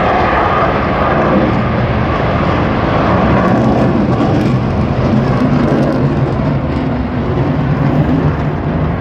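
Fighter jet engine running loud and steady in flight, with a continuous roar that sinks slightly in pitch over the first few seconds.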